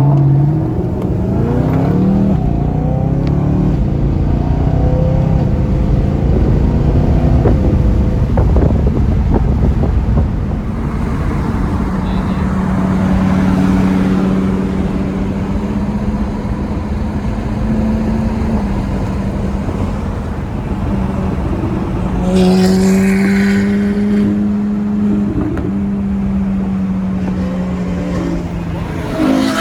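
A car engine revs hard, its pitch climbing steeply in the first two seconds. It then runs on at a fairly steady pitch under way, getting louder again about 22 seconds in.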